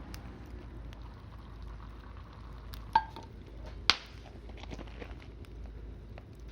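Wood bonfire burning, with faint scattered crackles over a low steady rumble and two loud sharp pops about three and four seconds in, the first with a brief ringing tone.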